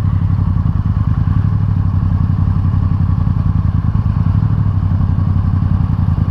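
Motorcycle engine running steadily with a low, rapid pulse; the level holds even, with only slight dips in the low note.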